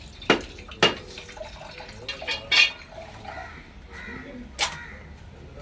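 A few sharp clinks and knocks, unevenly spaced, with a louder cluster about halfway through, as small hard objects are set down or struck.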